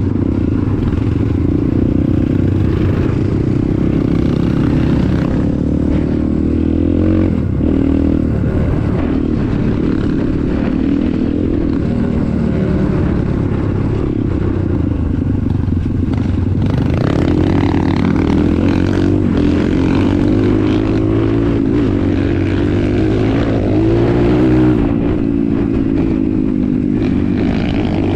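A vehicle's engine running steadily at low revs, its note wavering slightly up and down.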